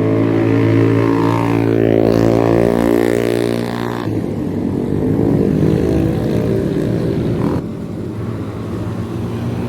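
Motorcycle engines passing close on the road: one runs loud and steady for the first four seconds, then gives way suddenly to a rougher engine rumble.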